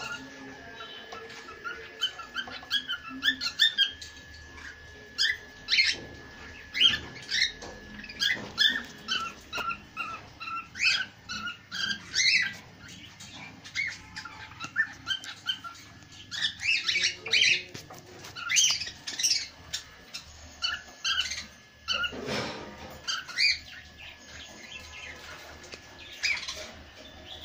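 Small caged birds chirping over and over in short, sharp calls, irregular and overlapping.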